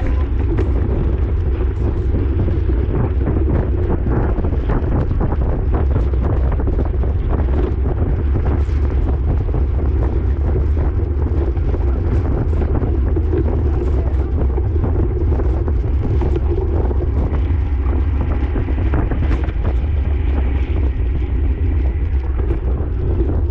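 Steady low rumble of wind buffeting the microphone of a camera on a bicycle in motion, with scattered clicks and ticks over it.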